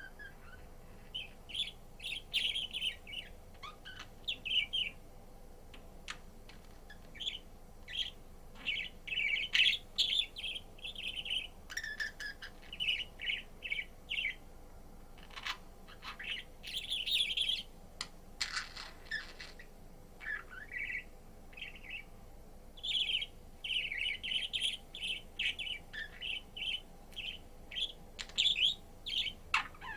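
Budgerigar chattering and warbling: quick runs of short chirps in clusters separated by brief pauses.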